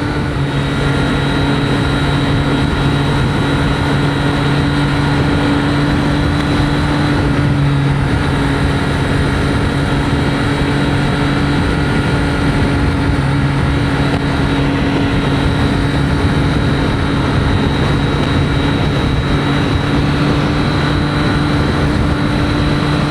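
Triumph Street Triple 765 RS inline three-cylinder engine running at a steady cruise, its pitch holding level, mixed with steady wind and road noise as heard from a microphone inside the rider's helmet.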